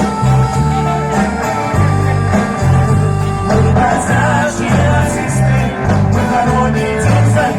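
Live pop-rock band music, with a bass line stepping from note to note under sustained chords.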